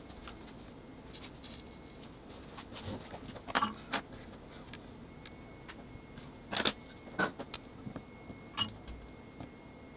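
Irregular light clicks and metallic clinks of small parts being handled, with a louder cluster about three and a half seconds in and again near the middle.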